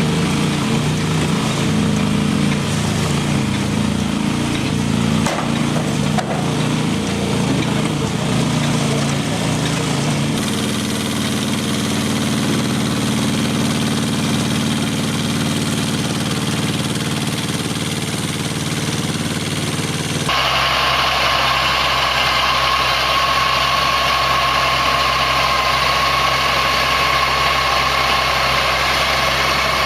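Engines of heavy farm machinery running steadily, in three stretches that change abruptly about ten and twenty seconds in; in the last stretch a steady high whine sits over the engine.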